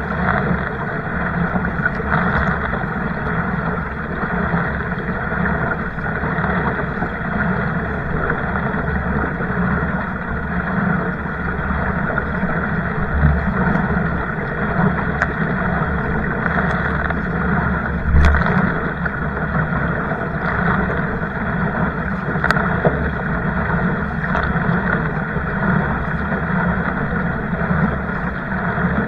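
Steady rushing noise of a kayak out on the water, with a few faint clicks and knocks.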